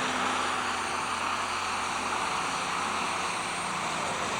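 Super stock pulling tractor's turbocharged diesel engine at full power during a pull, a steady hard run with no let-up.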